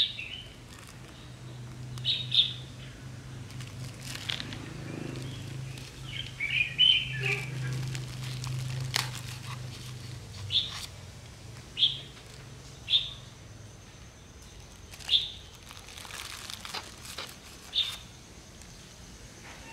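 A small bird chirping: single short, high chirps every second or two, over a low steady hum that fades out about halfway through. Faint rustles and clicks come from plastic and soil being handled.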